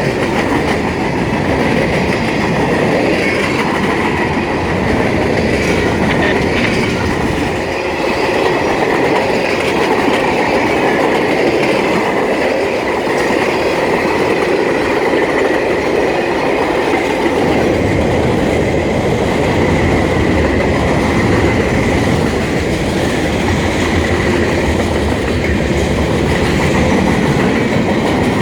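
Freight train rolling past, its wheels clacking steadily over the rail joints, with a thin high whine above the rumble.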